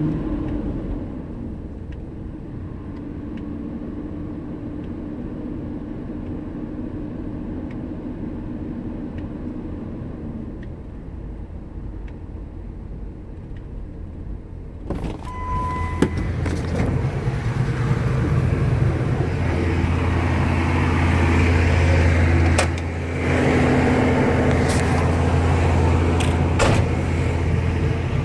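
Ford Expedition's 5.4-litre V8 running steadily, the engine the owner says idles rough. About halfway in there is a click and a short beep, and the engine sound becomes louder and deeper for the rest, with a brief drop a few seconds later.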